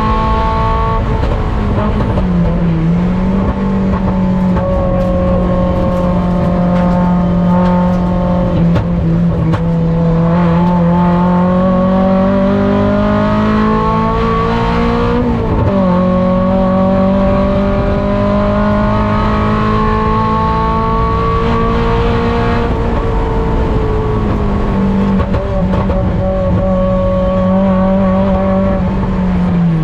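On-board sound of a Mazda Miata race car's four-cylinder engine running hard under racing load. The engine note climbs slowly through a gear and drops sharply at a shift about halfway through, with shorter dips near the start and near the end.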